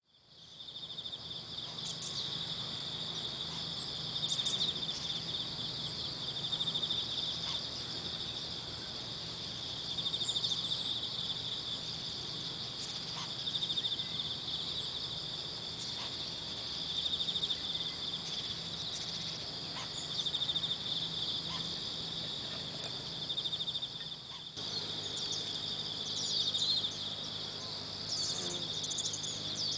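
A steady, shrill insect chorus with a fine pulsing trill, with scattered short call notes over it that are the lesser cuckoo's occasional alarm calls, coming more often near the end.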